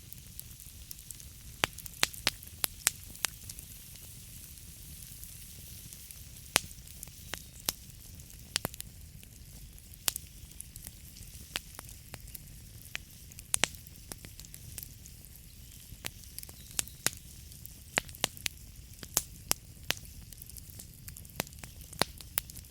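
Wood fire burning in a fireplace: a soft steady hiss with irregular sharp crackles and pops of burning logs, a few of them loud.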